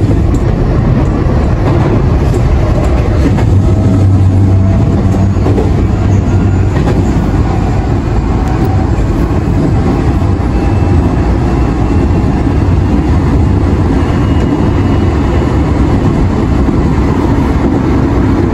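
Nankai 1000 series electric train running between stations, heard from inside the passenger car: a steady low rumble of the running gear with faint whining tones from the traction motors.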